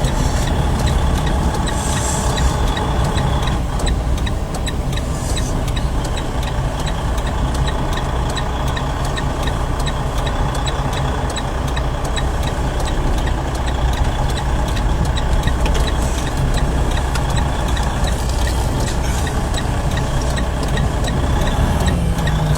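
Heavy truck's diesel engine running steadily at low speed, heard from inside the cab, with a faint regular ticking over it.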